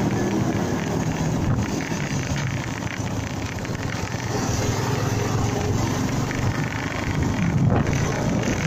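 Honda MegaPro Primus motorcycle's single-cylinder engine running steadily while riding, mixed with wind rushing over the microphone.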